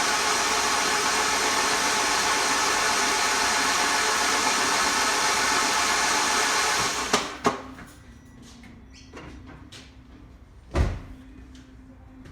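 Alfa Romeo 147 2.0 Twin Spark four-cylinder engine running steadily, then stopping abruptly about seven seconds in. A couple of sharp clicks follow, and a single loud thump comes near the end.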